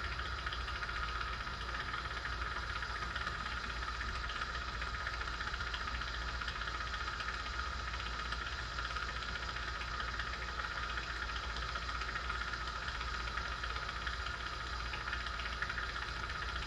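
Small jeweler's gas torch with a number 4 tip burning with a steady hiss.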